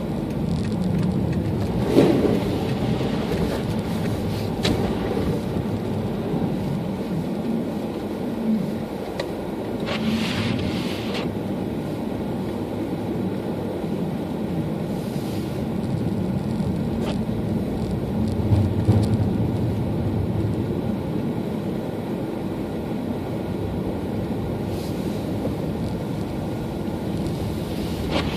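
Steady car engine and road noise heard from inside the cabin while driving on a snowy road. A few brief knocks and a short burst of hiss about ten seconds in.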